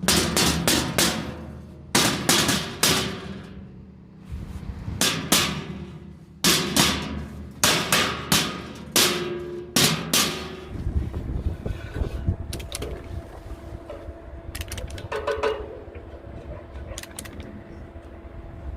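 Repeated sharp hammer blows, irregular and sometimes in quick runs, each ringing briefly, for about the first ten seconds. Then a steadier low hum with a few light clicks.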